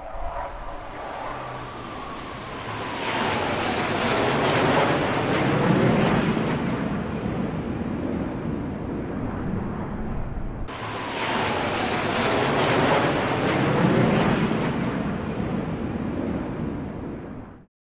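Airplane flyover rush that swells to a peak and fades away, with sweeping tones that fall and rise as it passes. The same pass plays twice: it cuts off abruptly partway through and starts again, then stops suddenly near the end.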